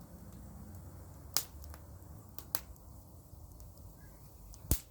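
Wood fire of dry pruned grapevine branches crackling, with sharp pops about a second and a half in, again about a second later, and the loudest near the end.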